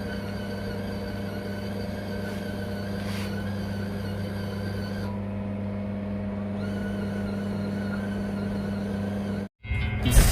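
A steady mechanical hum that cuts off abruptly about nine and a half seconds in, followed by music starting right at the end.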